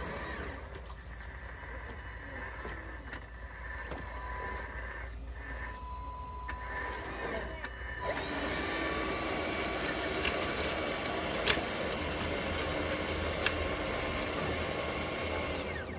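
Small electric motors of RC construction machinery whining, with a steady mechanical tone that steps up louder about halfway through, as if a machine is put under load. Two sharp clicks sound in the second half, and the whine cuts off just before the end.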